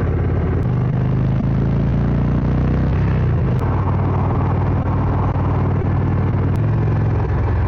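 Indian Springfield's air-cooled 111 cubic inch V-twin running through Sharkroad exhausts while riding, a loud steady low rumble whose pitch steps up about half a second in and shifts again around three seconds and near the end as the throttle changes.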